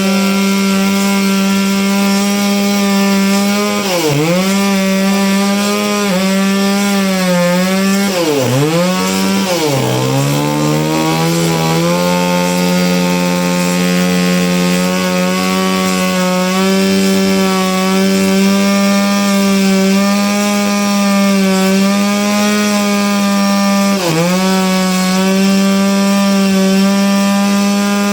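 Sawmill saw running with a steady pitched whine. Its pitch sags and recovers four times, the saw slowing as it takes load and then regaining speed; through the second half it runs at an even pitch.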